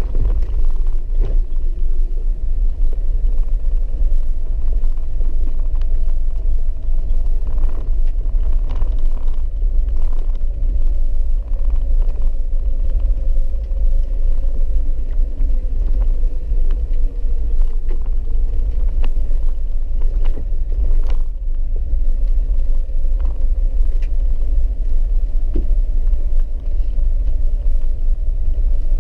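Four-wheel-drive vehicle driving, heard from inside the cabin: a steady low rumble of road noise under an even engine drone, with scattered sharp clicks.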